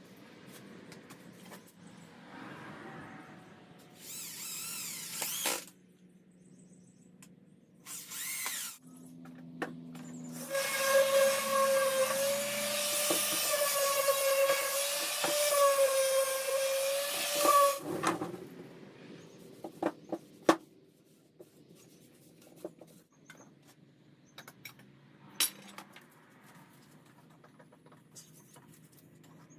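Power tools working wood: two short bursts of a power tool, then a motor running steadily for about seven seconds, followed by scattered knocks and clicks of handling lumber.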